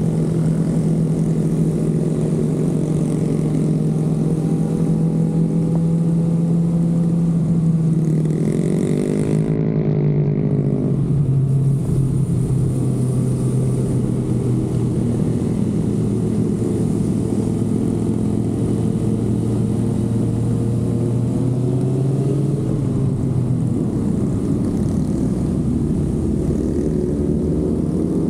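Kawasaki ZX-6R inline-four motorcycle engine running at a steady cruise under wind rush. About eight seconds in the revs climb briefly, then the engine settles to a lower, steady note.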